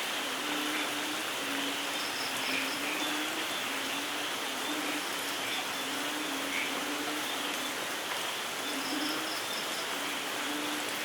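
Steady light rain falling, with short low tones recurring about once a second beneath it and a few brief high bird chirps.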